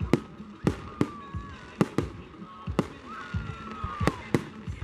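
Fireworks going off in an irregular run of sharp bangs, about eight in under five seconds. A thin whistle falls in pitch about three seconds in.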